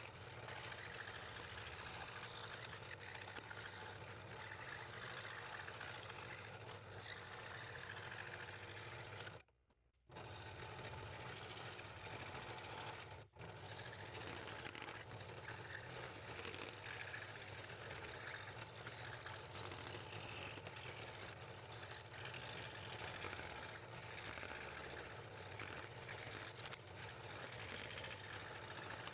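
Scroll saw running steadily, its blade cutting fretwork in wood, with a steady motor hum; it drops out abruptly twice, briefly, around ten and thirteen seconds in.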